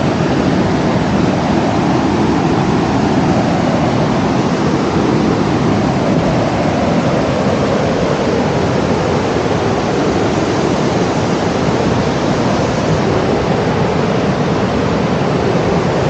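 Steady, loud rushing noise with no rhythm, strikes or tones, unchanged throughout.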